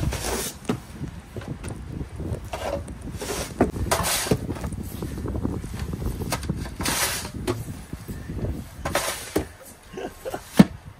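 Snow crunching and scraping in deep snow, in several separate strokes of about half a second each.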